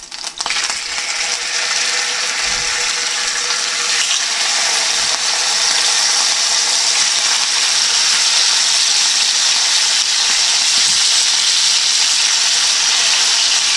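Raw chicken tenderloins sizzling in hot olive oil in a frying pan, the sizzle building over the first couple of seconds as the pieces are laid in, then holding steady.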